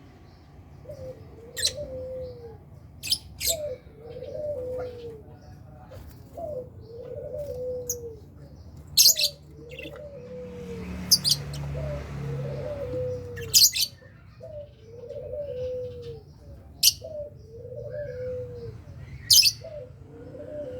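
Lovebirds in a colony cage giving sharp, high chirps every second or two; these are the loudest sounds. Beneath them, a low call that rises and then falls repeats steadily a little more than once a second.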